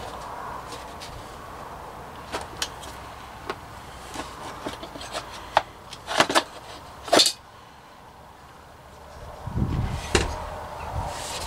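Scattered clicks and knocks of hard objects being handled, with a few louder clatters about six to seven seconds in.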